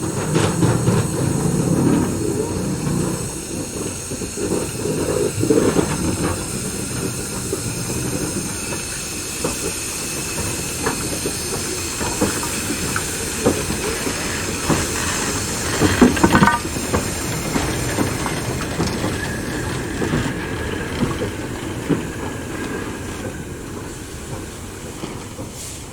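Steam-hauled train running by: steam hissing over the clatter of wheels and scattered knocks from the train, with a cluster of louder knocks about sixteen seconds in.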